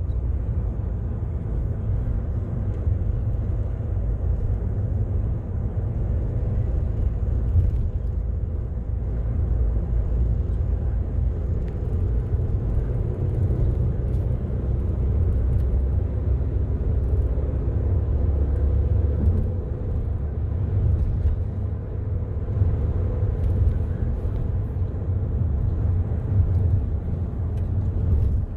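Steady low rumble of road and engine noise inside the cabin of a 2013 Volkswagen Jetta as it is driven along.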